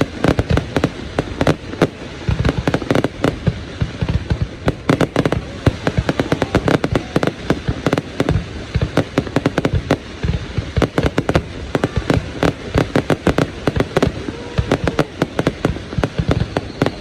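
Aerial fireworks display: a dense, continuous barrage of explosions, many bangs a second with no pause.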